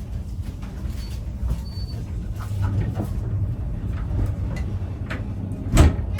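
Vintage railway carriage rolling along the track: a steady low rumble with scattered clicks and rattles, and one loud knock near the end.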